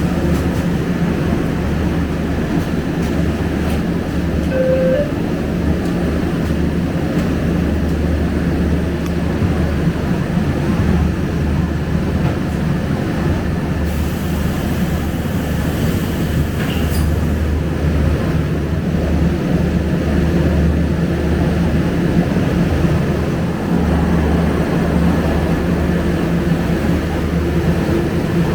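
Scania K250UB single-deck diesel bus heard from inside the saloon: a steady, even low engine hum with a constant rumble underneath.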